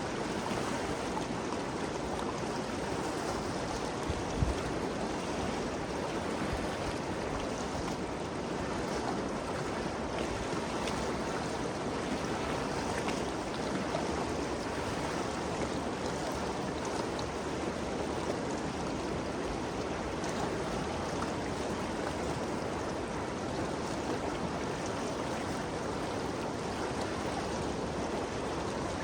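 Ganges River flowing: a steady rushing of water, with a brief low thump about four seconds in.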